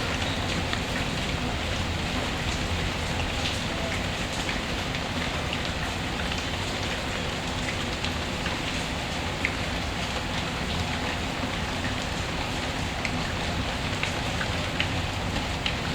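Recorded rain ambience: steady rain on a surface with scattered small ticks and drips throughout.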